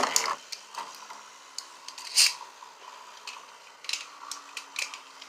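Beyblade spinning tops battling in a plastic stadium: a faint steady whine of the spinning tops with sharp clicks as they strike each other, a louder hit about two seconds in and a few more near four to five seconds, after a short loud burst right at the start.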